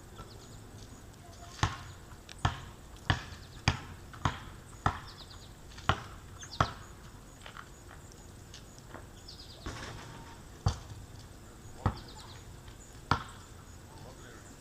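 Bird pecking at a feeder close to the microphone: sharp taps every half second to a second, in a run of eight and then three more, with faint high chirps falling in pitch.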